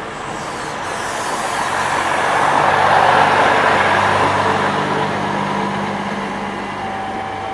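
Passenger train coaches rolling past close by: wheels and rails make a loud rushing rumble that swells to a peak about three seconds in and then eases off, with a steady low hum underneath.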